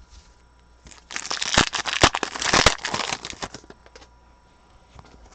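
Crinkling and rustling of plastic as trading cards are handled, a burst of a little over two seconds with a few sharp clicks in it.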